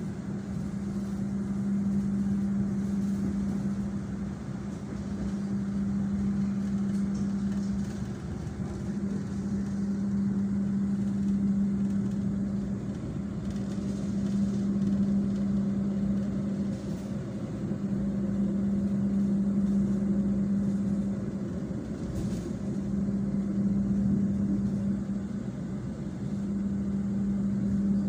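Passenger train running on flooded track, heard from inside the carriage: a steady hum over an even running noise that swells and fades gently every few seconds.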